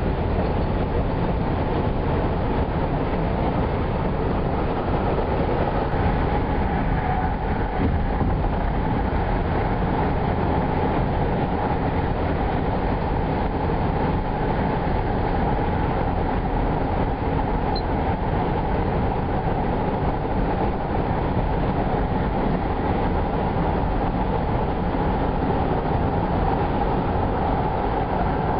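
Steady road and engine noise heard inside a car's cabin at highway speed: an even, low rumble with no distinct events.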